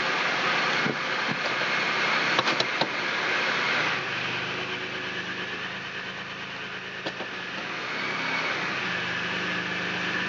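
2001 Chevy Malibu engine idling smoothly with a new EGR valve fitted, a steady low hum. A few sharp clicks and some rustling come in the first few seconds.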